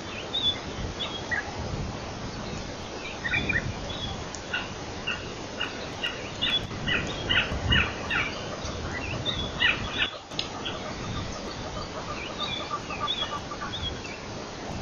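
Wild birds calling: many short, sharp chirps and quick repeated notes, busiest in the middle, with a fast, even run of lower notes about eleven seconds in. A low rumble of outdoor ambience lies underneath.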